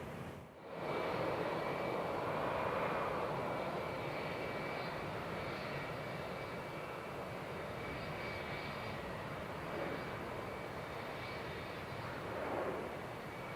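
Boeing 757-300 jet engines running: a steady jet noise with a thin high whine over it. It comes in after a brief drop about half a second in and is loudest around two to three seconds in.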